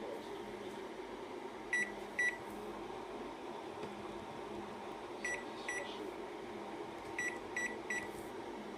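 Key-press beeps from a Daewoo KOG-6C2BS microwave's touch control panel: seven short high beeps in groups of two, two and three, each a button press that registered, over a steady low hum.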